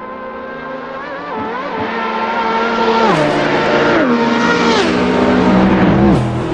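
A performance car's engine running hard, getting louder as it comes closer. Its pitch drops in several steps over the last few seconds, and the sound fades as it goes by.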